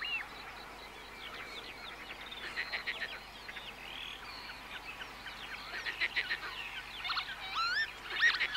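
Several birds chirping and singing together: a busy mix of quick chirps, trills and short whistles that slide up and down in pitch, getting louder and busier near the end.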